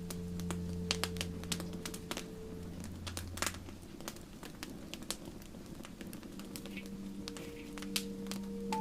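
Wood fire crackling with irregular sharp pops, over soft, held background music tones that fade away a few seconds in and return near the end.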